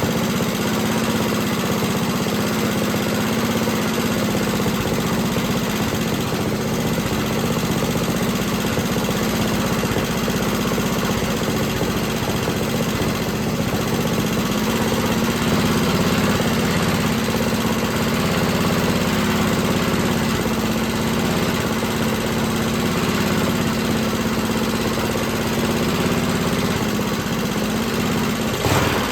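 Freshly rebuilt Clinton small engine running at a steady, even speed; near the end it speeds up and gets louder.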